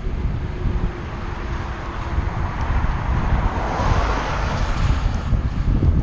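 Wind buffeting the microphone of a camera on a moving bicycle, a heavy low rumble. A rushing noise swells in the middle and stops about five seconds in.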